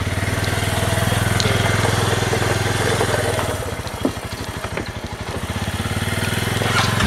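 ATV engine running close by, its firing pulses steady and rapid; the level eases off a little past the middle and comes back up near the end.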